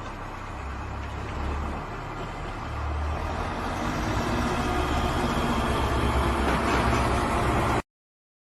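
An engine running steadily with a low hum and a lot of mechanical noise, growing gradually louder, then cutting off abruptly near the end.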